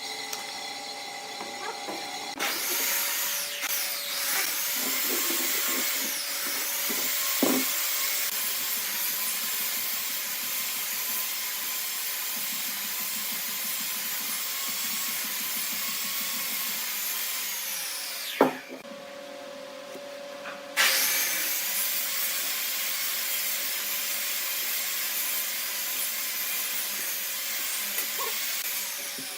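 A power tool running steadily on wood, with a hissy, high-pitched sound. It stops abruptly with a click a little past the middle and starts up again about two seconds later.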